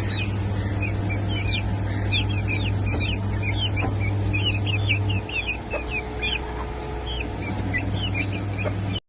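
White bantam chicks peeping, many short high cheeps overlapping several times a second. Under them runs a steady low hum that drops away about five seconds in and returns near the end.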